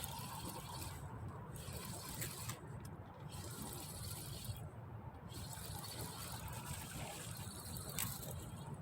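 Steady rush of flowing water along the riverbank, with a few faint clicks.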